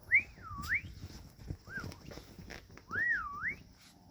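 A person whistling in short up-and-down swooping phrases, three times, over soft rustling of the puppies moving on the bed.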